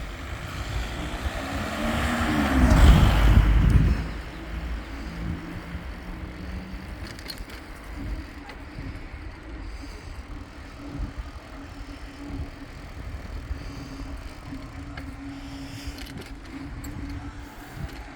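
A motor vehicle passes close by about two seconds in, getting louder and then dropping in pitch as it goes. After it, a steady rumble of road and wind noise carries on from the moving bicycle.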